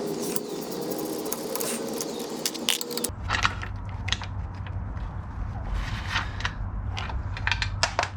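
Hand tools working on the car's bolts: clicking and metallic clanks, which change abruptly about three seconds in to scattered sharp clanks over a low hum.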